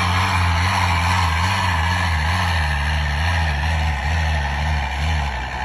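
Big truck's engine running steadily: a loud, deep drone whose pitch wavers slightly up and down.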